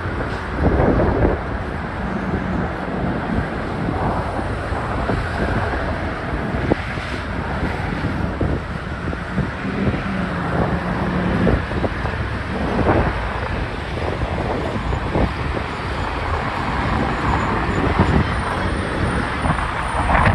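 Steady rolling rumble of passing vehicles, with scattered short knocks and wind buffeting the microphone.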